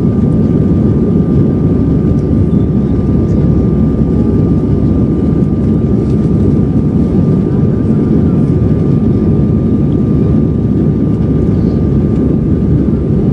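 Airbus A320 engines heard from inside the passenger cabin: a loud, steady low roar with a thin, steady whine above it.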